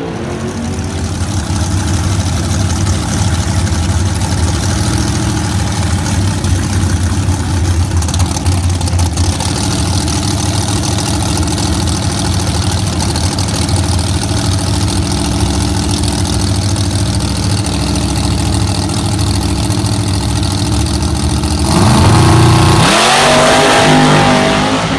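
Drag race car's engine running steadily at the starting line, then revving up hard with a rising, louder sweep about 22 seconds in as the car launches.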